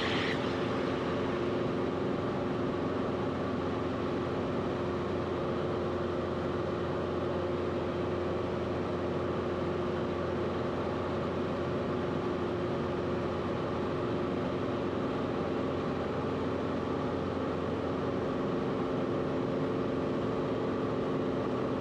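Cessna 172RG's engine and propeller droning steadily in flight, a constant cockpit hum with a few held tones and no change in pitch.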